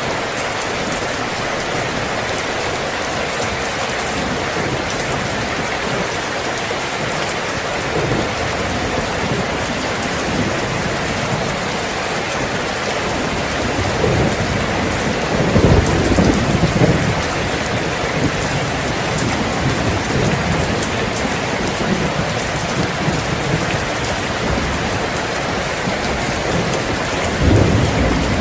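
Steady rain, with low rolls of thunder swelling up about halfway through and again near the end.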